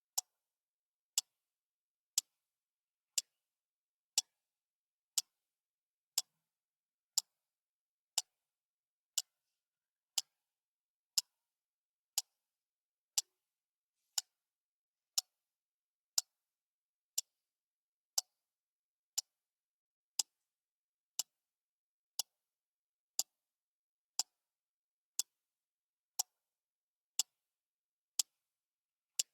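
Clock ticking steadily once a second: short, even clicks with silence between them.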